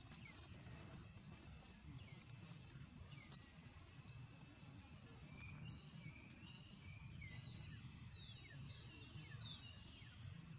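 Faint outdoor ambience: birds calling over a low, steady rumble. The calls are short, high chirps that slide downward, a few at first and several in quick succession in the second half.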